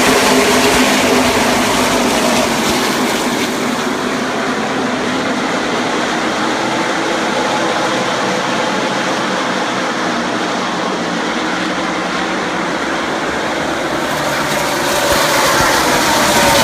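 NASCAR Camping World Truck Series race trucks' V8 engines running at speed around the track, a continuous loud engine noise. It is loudest at the start, eases off in the middle, and swells again near the end with falling pitch as the field comes past.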